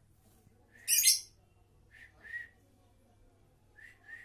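A pet bird calling: short chirps in pairs, with one loud, harsh squawk about a second in.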